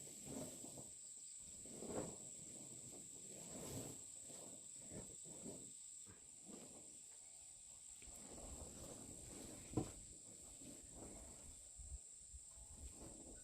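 Faint outdoor ambience: a steady high insect drone, with quiet rustling and handling noises and one sharp knock just before ten seconds in.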